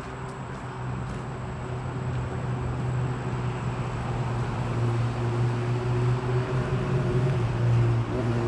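Low engine drone of a motor, with a steady hum and a few fainter tones above it, growing gradually louder.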